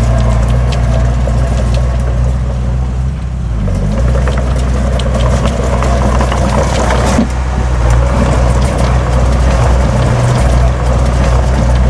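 Heavy diesel earthmoving machinery running steadily, its engine note dipping briefly about three and a half seconds in, with scattered metallic clanks over it.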